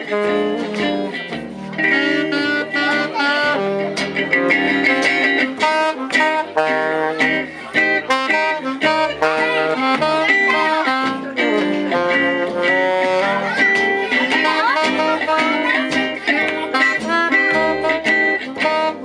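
Live jazz manouche band playing an instrumental passage, with guitar most prominent over a steady accompaniment and a run of quick melodic notes.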